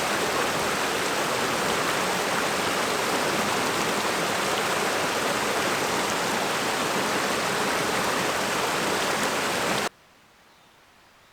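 Steady, dense hiss of rushing water, cut off abruptly about ten seconds in, leaving only a faint hiss.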